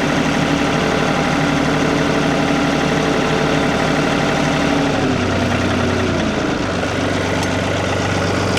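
Tractor engine running steadily, then its speed drops to a lower steady idle about five seconds in.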